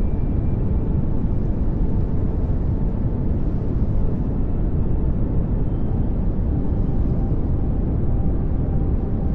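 Steady pink noise: an even, unchanging hiss-and-rumble, heavier in the low end and thinning toward the top.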